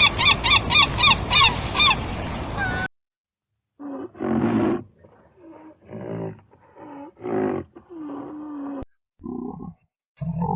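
Animal calls in two clips: rapid high chirps repeated about four times a second, then a cut to a run of short, lower-pitched calls.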